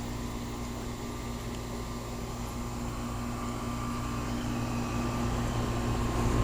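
2006 Goodman 3-ton central air-conditioner condensing unit running: a steady hum of compressor and condenser fan with a few constant tones, growing a little louder near the end.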